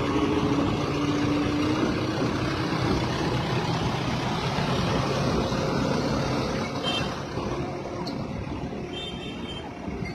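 Heavy diesel engine of a crane running under load, loudest in the first half and easing off in the last few seconds.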